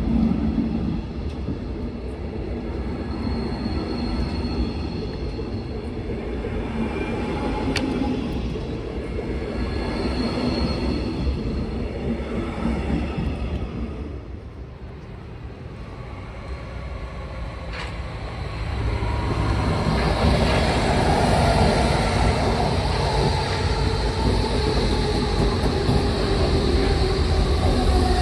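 Trains running on the tracks: a steady rumble of wheels on rails that fades for a few seconds around the middle. Then a train comes in louder, its whine falling slowly in pitch.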